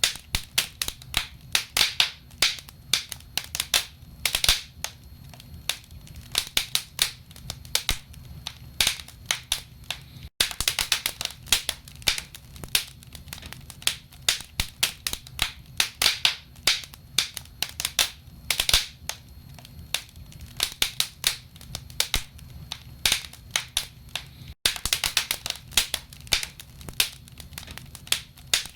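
Burning firewood crackling and popping in a fireplace: dense, irregular sharp pops over a low steady rumble. The sound cuts out for an instant twice.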